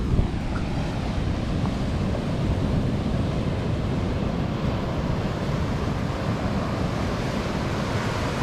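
Sea surf breaking and washing on a sandy beach, with wind buffeting the microphone and a steady low rumble.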